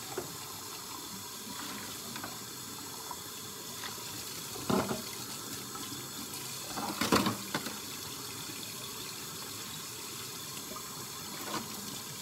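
Kitchen tap running steadily into a sink while dishes are washed by hand, with a few knocks of dishes and utensils, the loudest about seven seconds in.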